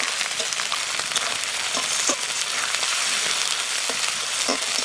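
Onions, whole spices and ginger-garlic and green chilli pastes sizzling in hot oil in a metal kadai, stirred with a metal spatula that knocks and scrapes against the pan a few times.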